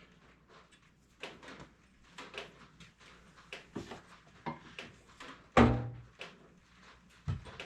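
Engine parts being handled and fitted on a workbench: a scatter of light clicks and knocks, with a heavier knock about five and a half seconds in and another near the end.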